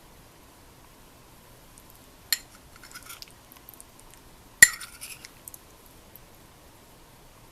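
Two sharp clinks of utensils against dishes, a couple of seconds apart, the second louder, each followed by a brief light rattling.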